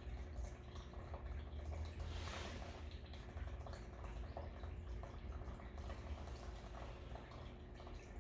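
Faint water dripping and trickling over a low steady hum, with small scattered drip ticks and a brief hiss about two seconds in.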